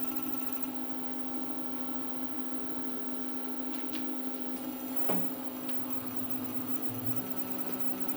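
CNC machine running an engraving job with a spring-loaded carbide drag-engraving tool: a steady electrical hum with a sharp click about five seconds in.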